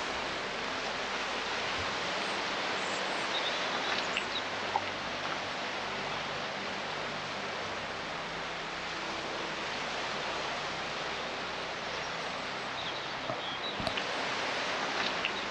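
Steady outdoor ambient noise, an even hiss, with a few faint high bird chirps about three seconds in and again near the end.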